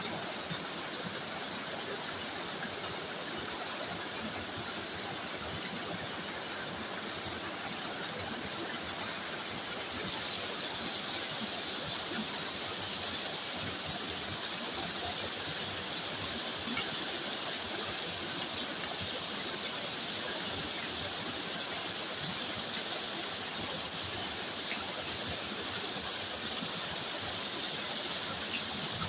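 Steady rushing water noise, even and unbroken, with a single sharp click about twelve seconds in.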